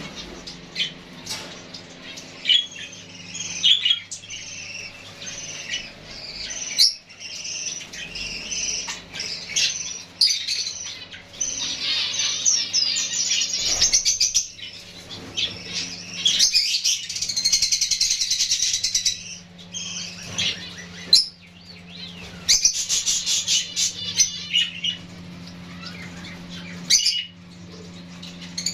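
Small finches chirping and calling busily, with quick wing flutters and small knocks; the chirping is densest around the middle. A steady low hum runs underneath.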